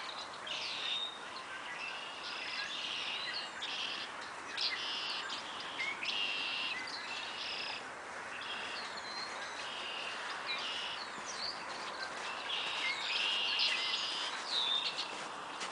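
Many small birds chirping together in a continuous, busy chatter of short, high, repeated calls over a steady background hiss.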